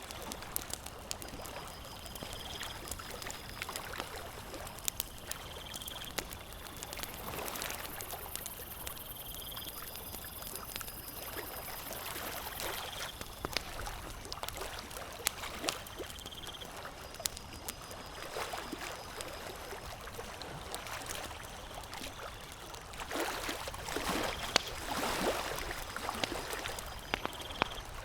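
Campfire crackling, with frequent sharp pops and snaps over a steady washing sound of water, which swells louder a little before the end. A faint short high chirp repeats every couple of seconds.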